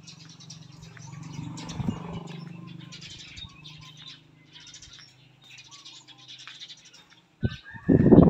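Small birds chirping again and again over a low, steady hum, with a sudden loud burst of noise near the end.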